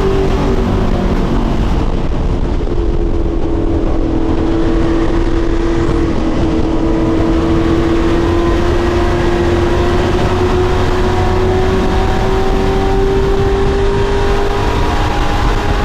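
Pro Truck racing trucks running at speed on the oval, a loud continuous engine note over a steady rumble; the pitch sinks gently over the first several seconds and rises again toward the end.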